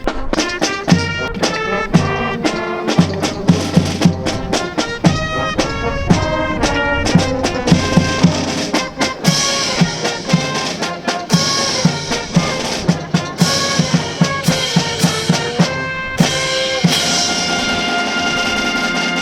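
Brass band music with drums: trumpets and trombones over a steady drum beat.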